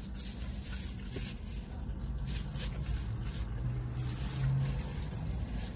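Chewing and small crackly eating noises over a steady low rumble inside a car. A soft low hum comes in about three seconds in and lasts a second or two.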